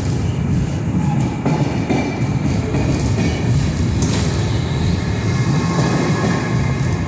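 Passenger coaches rolling past on the rails: a steady rumble of the wheels, with a sharp click about four seconds in.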